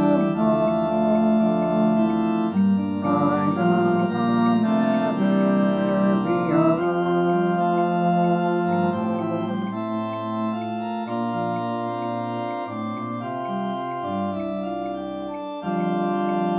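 Organ playing sustained chords of a hymn accompaniment, the harmony changing every second or so. A louder full chord comes in near the end.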